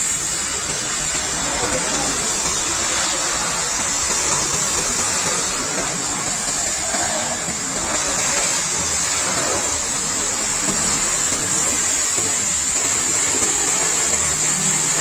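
Steady water spray from a bike-wash jet hitting a motorcycle, a constant hiss with no breaks.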